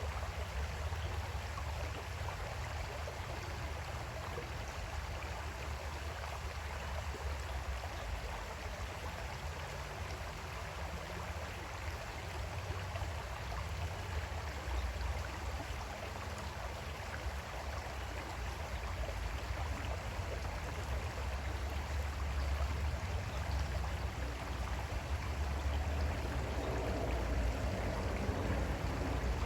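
Creek water flowing over rocks in a steady rush, a little louder toward the end.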